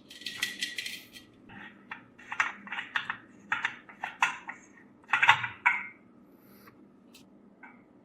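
Small metal parts clinking against each other and a hard surface: a dozen or so sharp, separate clinks over about four seconds, after a short scratchy hiss at the start.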